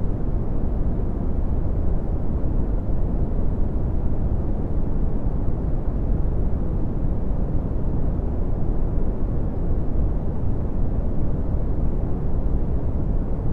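Synthetic red (Brownian) noise: a steady, deep rumbling hiss, strongest in the bass and fading off toward the treble, with no change throughout.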